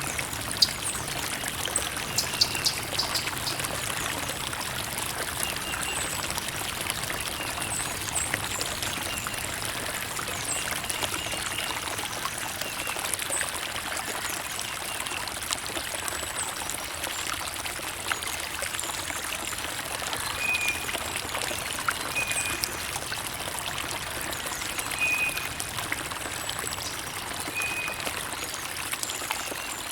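Shallow creek water trickling and babbling steadily, with small splashes and gurgles, and a few short high chirps now and then.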